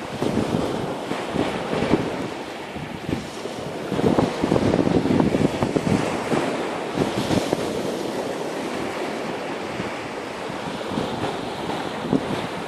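Sea surf washing onto a beach, with wind buffeting the microphone; a wave swells louder about four seconds in, then eases off.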